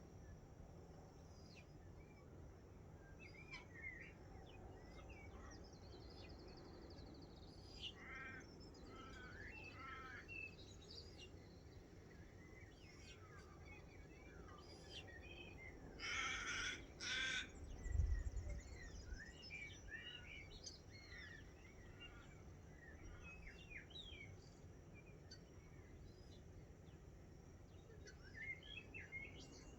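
Dawn chorus of wild birds at a wetland, many short chirps and calls scattered throughout. About halfway through come two loud calls, the loudest sounds here, followed by a brief low thump.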